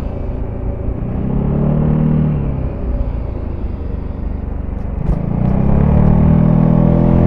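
Zontes E350's single-cylinder engine through its stock exhaust, heard on board while riding, with a low rumble of wind and road underneath. The revs rise about a second in, ease off, then climb again from about five seconds in and hold higher.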